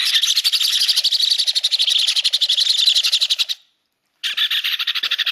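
Baby Meyer's parrot giving rapid, pulsing food-begging calls while being syringe-fed: one long bout of about three and a half seconds, a brief pause, then a second bout.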